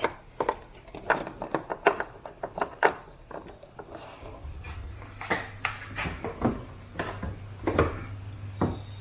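Scattered hard clicks and knocks of plastic trim, hardware and hand tools being handled while a car tail light is refitted. A low steady hum comes in about halfway through.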